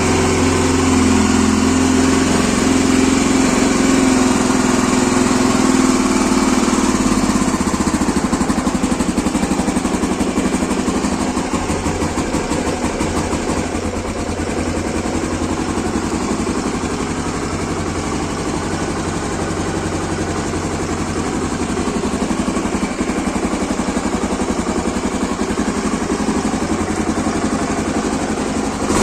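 Honda AX-1's 249cc liquid-cooled DOHC single-cylinder engine idling steadily just after a cold start, its note changing about seven seconds in.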